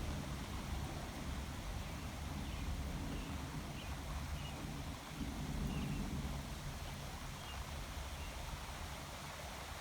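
Thunder rumbling low and rolling on, swelling again about five seconds in, with a few faint high chirps over it.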